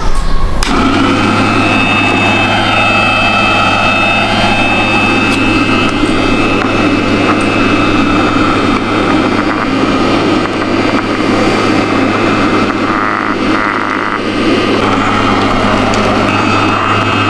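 Small electric motor and fan of a homemade plastic-bottle vacuum cleaner switched on just under a second in and running steadily, a loud whirring hum with a high whine.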